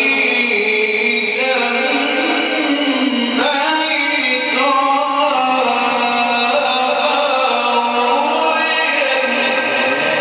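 A male reciter chanting the Quran in a melodic, ornamented style, drawing out long held notes that bend up and down, with a new phrase starting twice in the first few seconds.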